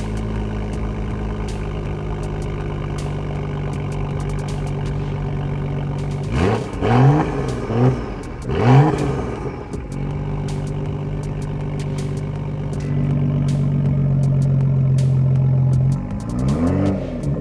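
BMW M2's turbocharged straight-six idling through its M Performance titanium exhaust, then revved three times in quick succession about six seconds in, each rev rising and falling away. It settles back to idle, holds a higher steady idle for a few seconds, and near the end is blipped again with the exhaust in track mode.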